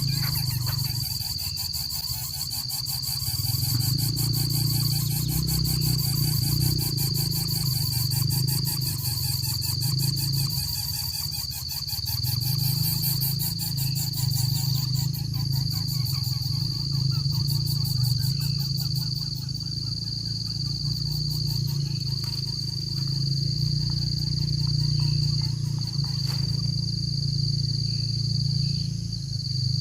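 Insects, crickets or cicadas, chirring in a steady high-pitched drone, with rapid pulsing in the first half. A loud low rumble swells and fades underneath it.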